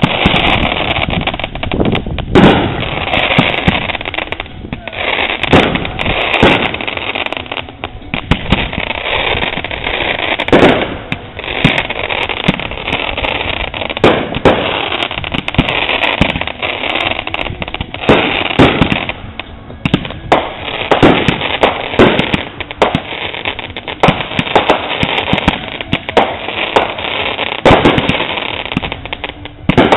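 Consumer aerial fireworks going off in rapid succession: a continuous crackling hiss, punctuated by sharp bangs every second or so, with a short lull about two thirds of the way through.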